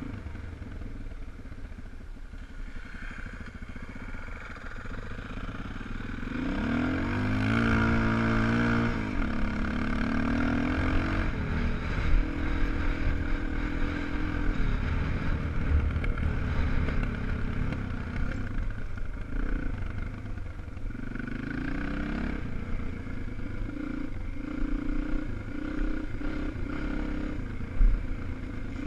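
250 cc enduro motorcycle engines running on a dirt track, revving up and down. The engine pitch climbs and falls sharply about seven to nine seconds in, with further rises and drops of revs later on.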